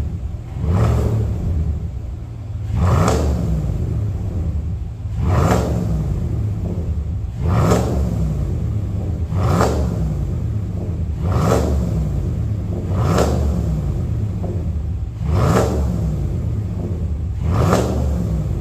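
Cadillac Escalade V8 through a custom JSR variable (valved) exhaust, idling with nine quick throttle blips, each rev rising and falling back in pitch, about every two seconds.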